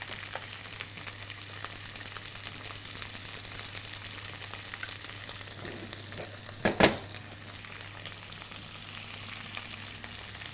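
Sliced red and green capsicum and onion frying in oil in a wok over a high flame: a steady sizzle with fine crackling. A single sharp knock comes about seven seconds in.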